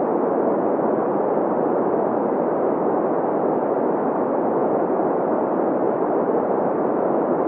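Green noise: a steady, even hiss with its energy centred in the middle of the audible range, around 500 Hz, thinning out toward the deep bass and the treble.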